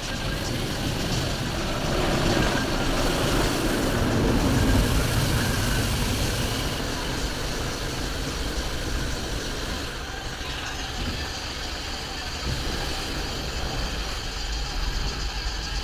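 An engine running steadily at idle under a broad hiss, swelling for a few seconds about two seconds in and then settling back.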